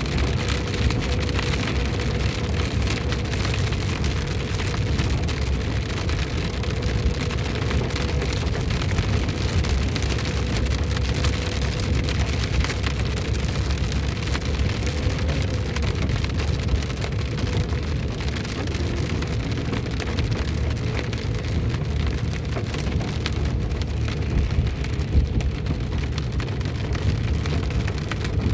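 Heavy rain pouring down steadily, with a faint steady hum during the first half.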